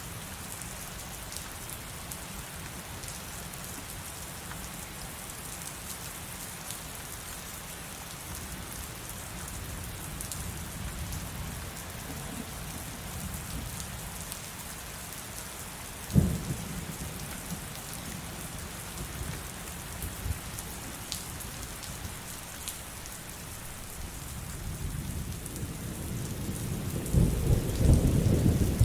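Heavy rain falling steadily, with a sharp thunder crack about halfway through and a long rolling thunder rumble that builds up near the end.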